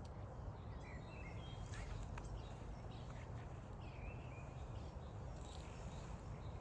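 A few faint, short bird calls, about a second in, near two seconds and again around four seconds, over a steady low background rumble.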